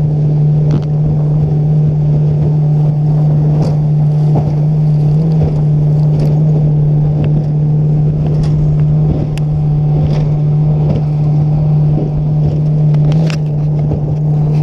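Outboard jet motor on a 1756 flat-bottom riverboat running steadily at one even pitch as the boat is driven across choppy, whitecapping water, with a few scattered knocks.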